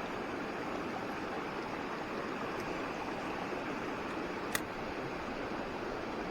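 Mountain stream water flowing steadily, an even rush of water, with one sharp click about four and a half seconds in.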